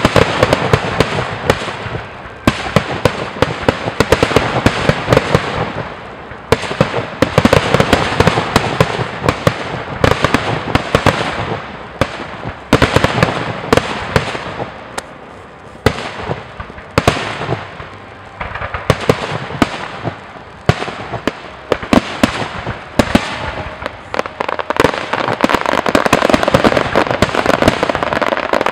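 Aerial fireworks display: shells bursting with sharp bangs over a dense crackle, in waves that swell and ease every few seconds, growing into a thick continuous crackle near the end.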